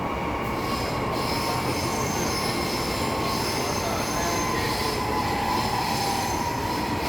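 Metro train running between stations, heard from inside the coach: a steady rumble of the running train with thin, high wheel squeal on the rails that comes in about half a second in and holds.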